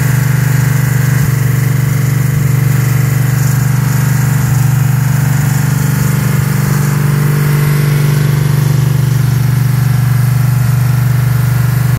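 Ford 428 Cobra Jet big-block V8 running steadily at an even speed on an engine run stand, exhausting through short stand mufflers, as the fresh engine is run in.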